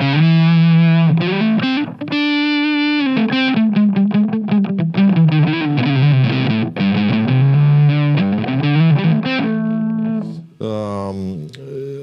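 Distorted electric guitar played through an MXR MC402 boost/overdrive pedal with its gain turned up: riffs of chords and quick picked notes. The playing stops shortly before the end.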